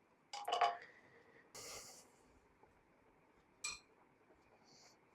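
A few faint, separate metallic clinks and a short scrape from steel clamping hardware being handled while a cast-iron block is clamped down; the sharpest clink comes about three and a half seconds in.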